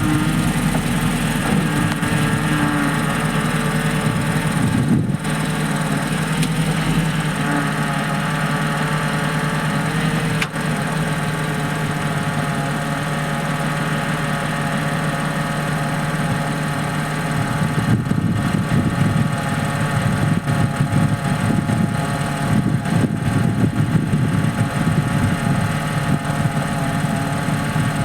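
Porsche Cayman S 987.2's flat-six idling with a steady high-pitched, mosquito-like whine from the power-steering system, a sign of power-steering fluid leaking from the low-pressure hose. The sound turns more uneven in the second half.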